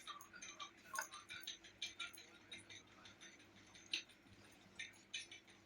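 Faint eating sounds from someone eating by hand: irregular small clicks and smacks, several a second.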